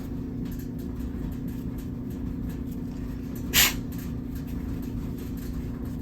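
Steady low background hum, with a single short hiss a little past halfway.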